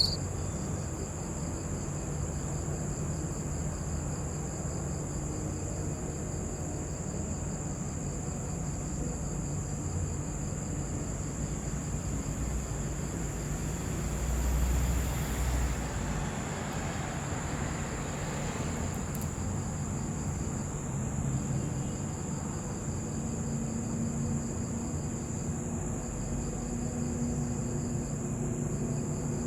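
Crickets chirping at night: a steady high-pitched trill with a fainter, pulsing chirp under it, over a low rumble. A brief swell of noise rises and falls about halfway through.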